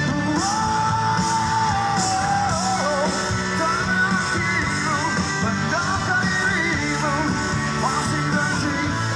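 Live rock music from a band over a PA: a singer's voice over guitar, bass and drums, with a steady cymbal beat.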